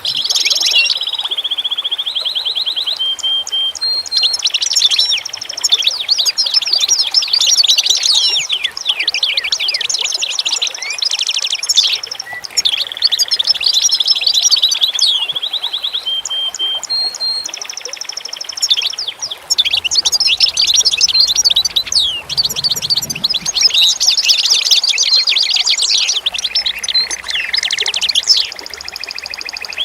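A dense chorus of songbirds, many singing at once: rapid chirps, fast sweeping notes, trills and held whistles overlapping.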